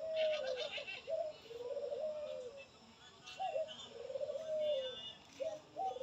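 Birds calling: a low call with a short rising hook and a held, slightly falling note, repeated about every second, with fainter high chirps over it.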